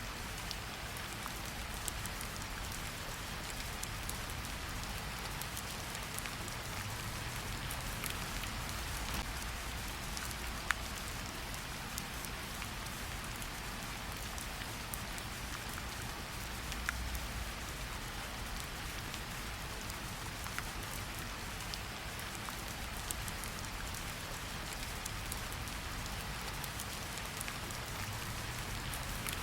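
Steady rain falling on a surface, with scattered drops ticking and a faint low rumble underneath.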